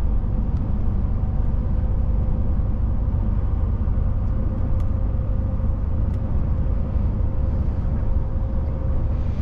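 Steady drone of a DAF truck on the move, heard from inside the cab: low engine rumble and road noise, with a faint steady whine through the middle.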